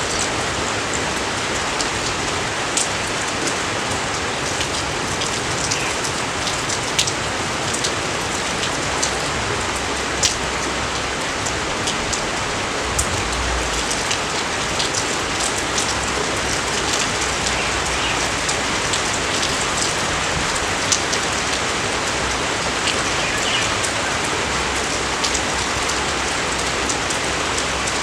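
Steady rain, an even hiss with many individual drops ticking sharply close by.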